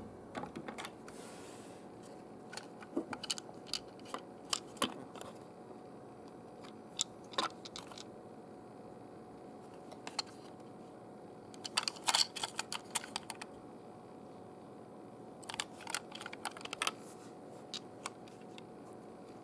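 Plastic clicks and clatter from a Plarail toy train, irregular and in clusters, with a thicker cluster about twelve seconds in, over a steady faint hum.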